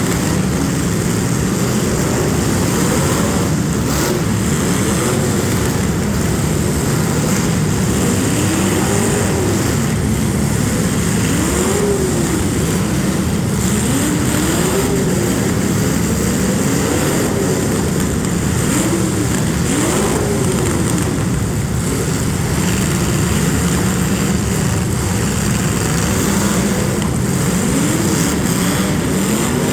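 Demolition derby cars' engines revving hard and falling back over and over, one rise and fall every couple of seconds, over a steady loud din of engines running at once.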